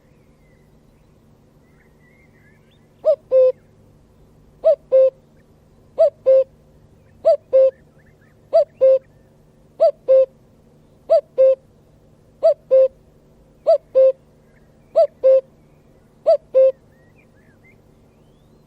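A bird giving a loud two-note hooting call, the first note higher and the second lower, repeated eleven times at an even pace about every second and a half, starting about three seconds in.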